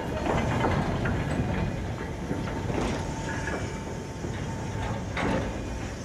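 Goods wagons and a wooden brake van rolling past on the rails: a low, steady rumble of the wheels with occasional clicks and knocks over the rail joints.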